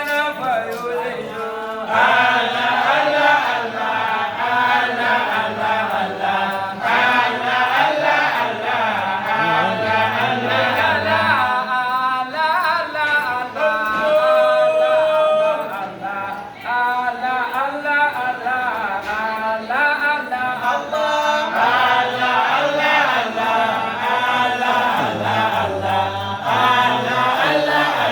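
A group of voices chanting Arabic religious praise together, unaccompanied, in a continuous call-like melody.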